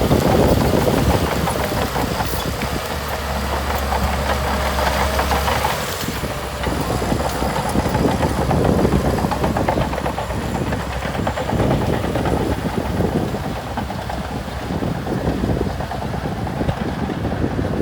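Diesel engine of heavy earthmoving equipment running steadily under work, a dense low rumble with a deeper hum for a few seconds early on.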